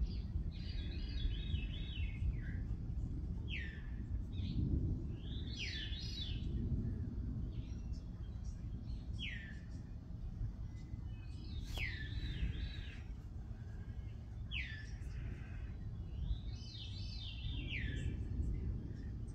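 Wild birds calling in woodland: short whistled notes that slide downward, repeated every second or two, mixed with harsher buzzy calls, over a low, steady background rumble.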